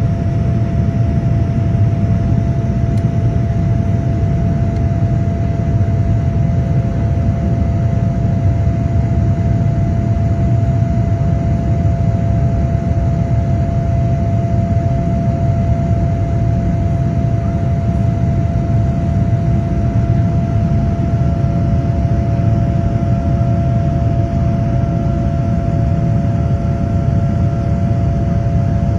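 Cabin noise inside a Boeing 787-10 airliner in flight: a steady deep rumble of engines and airflow with a constant hum tone over it.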